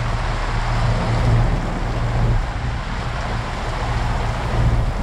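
Strong wind buffeting the microphone as a steady low rumble, over the rush of heavy rain and sea around a sailboat in a downpour.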